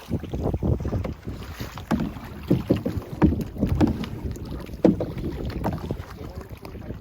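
Kayak on the water: irregular splashes and knocks of paddling and handling, with wind buffeting the microphone.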